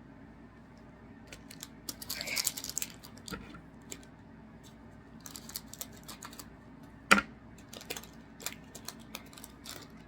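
Trading-card packs and cards being handled: crinkling foil wrappers and cards flicking and tapping, in scattered bursts with a denser crinkle about two seconds in and a sharp click about seven seconds in.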